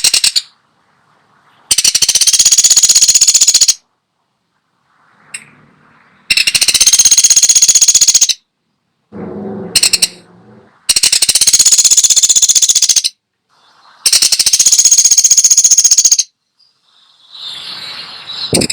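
Woodpecker sold as 'pelatuk sampit' calling in loud, high-pitched rapid rattling trills, four of them about two seconds each with short pauses between. A short lower-pitched call comes between the second and third trills.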